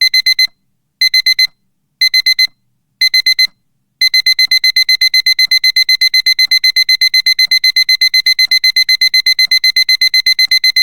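Electronic alarm beeping of a countdown timer going off. It gives quick bursts of four high beeps once a second, then about four seconds in switches to continuous rapid beeping.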